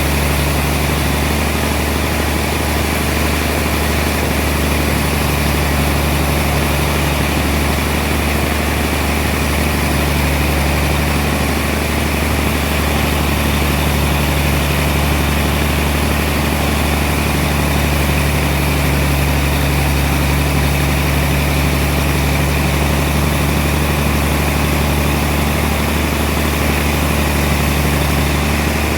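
Sawmill machinery running with a steady, unbroken engine-like drone and a low hum.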